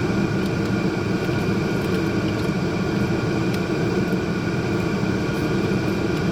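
Steady mechanical hum with several constant tones, even in level throughout, with a few faint clicks.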